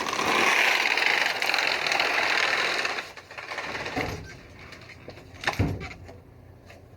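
A bike rolling with a fast, even rattle for about three seconds, which then dies away, with a few short knocks afterwards.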